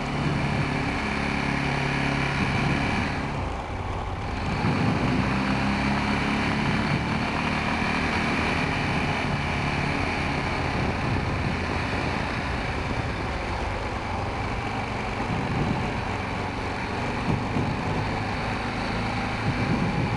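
Honda Rincon 650 quad's single-cylinder four-stroke engine running under way, its note shifting with throttle; it eases off briefly about three seconds in and then pulls again.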